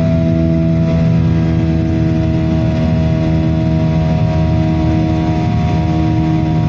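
Airliner engines heard inside the passenger cabin: a steady hum of several held tones over an even rushing noise.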